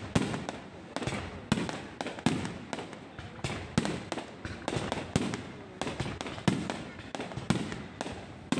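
Low-altitude fireworks going off in a steady string of sharp bangs, about one every three-quarters of a second, each with a brief echoing tail.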